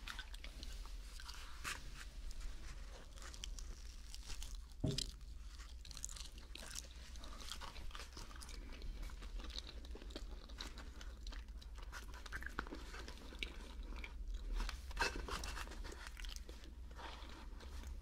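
A mouthful of mac and cheese sandwich chewed close to a binaural microphone: many small wet clicks and crackles of bread and filling, with one louder knock about five seconds in.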